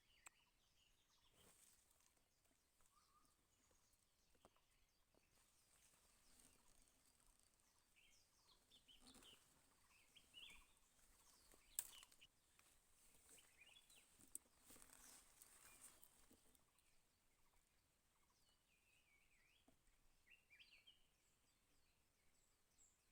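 Near silence in woodland, with faint scattered bird chirps and two sharp clicks a little past the middle.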